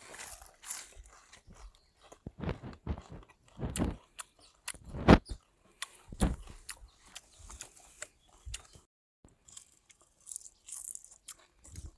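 Chewing and crunching of fried grasshoppers: irregular crisp crunches and bites, the loudest about five seconds in.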